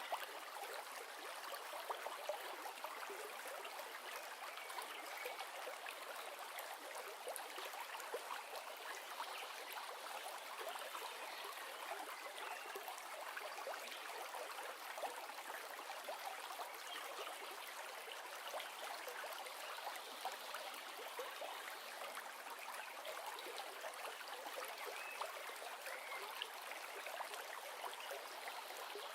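River water flowing steadily, with dense small splashing and trickling.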